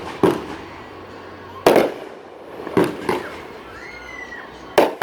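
Fireworks bursting overhead: four sharp bangs at uneven intervals of about one to two seconds, each trailing off in a rumbling echo.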